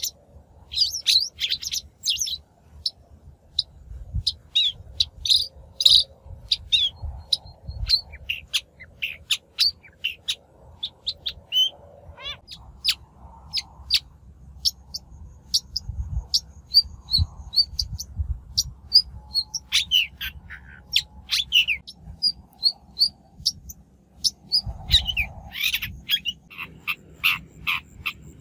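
A shrike calling and singing: quick clusters of short, sharp, scratchy chirps with a few brief whistled notes, over a faint low rumble. It is a lure-call recording of the kind used to draw wild shrikes.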